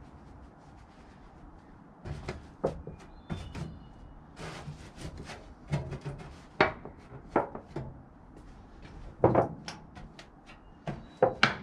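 Irregular knocks and clanks from a sheet of old metal roofing being bent and worked into place against a wooden beam, a few of them ringing briefly. They begin about two seconds in.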